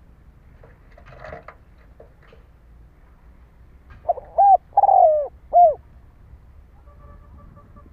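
Spotted dove cooing: one three-note phrase about four seconds in, a short note, a longer falling note, then a short note. Faint rustling noises about a second in.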